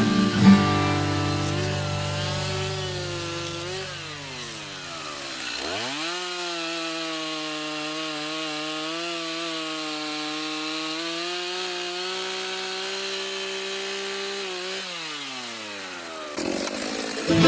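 Stihl MS290 Farm Boss two-stroke chainsaw, its freshly sharpened chain cutting wood. It runs low at first, revs up quickly about five seconds in and holds a steady high pitch through the cut, then winds down near the end.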